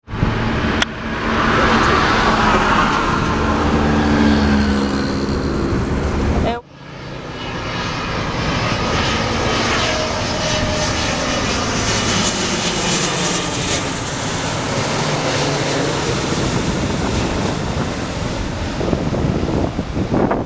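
Jet airliner engines on landing approach, a loud steady rush with a low engine hum. It breaks off abruptly about six and a half seconds in, and a second jet's noise builds up and holds.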